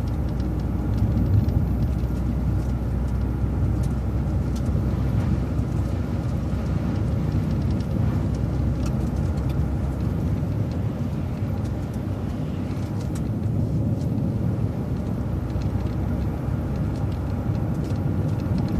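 Transit bus driving along a road: a steady low rumble of engine and road noise.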